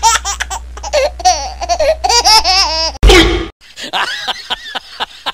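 Laughter sound effect: rapid, high-pitched giggling laughter, broken off about three seconds in by a short loud burst, then a second bout of quicker snickering laughs.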